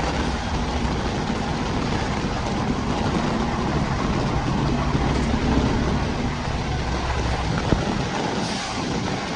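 Heavy rain hissing steadily, with the low rumble of a passing train underneath that fades near the end.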